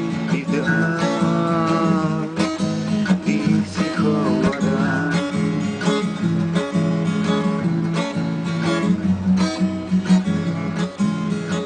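Acoustic guitar strumming chords in an instrumental passage of a song, with a wavering melody line above the chords for the first few seconds.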